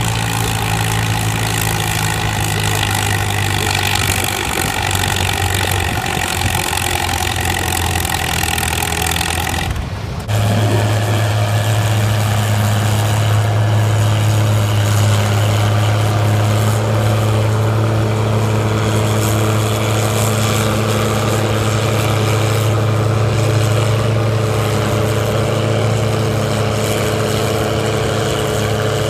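Farm tractor engine running loud and steady at a tractor pull. It breaks off briefly about ten seconds in, then carries on with a stronger, steady low hum.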